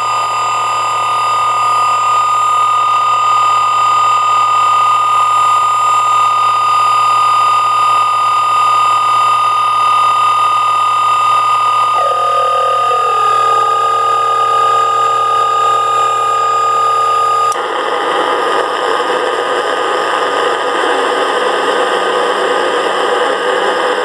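Live electronic noise-drone music: layered steady electronic tones over a hiss. About twelve seconds in, the middle tones slide down in pitch, and at about seventeen and a half seconds the sound switches abruptly to a harsher, grittier texture.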